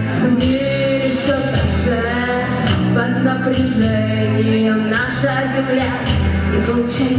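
Rock song with a singing voice over a steady drum beat and bass line.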